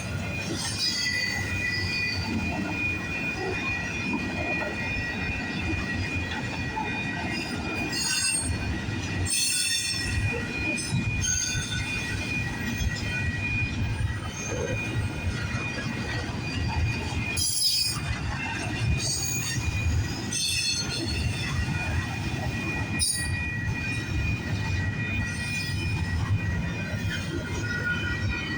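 Freight train cars rolling past, their wheels squealing steadily over a low rumble, with occasional clanks from the wheels and couplers.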